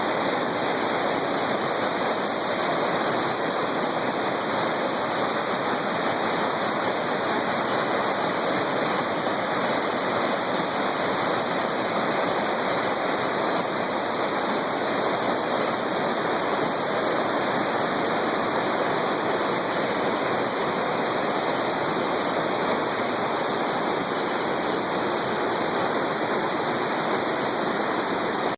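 Steady rushing water, like a stream or small waterfall, running evenly without change.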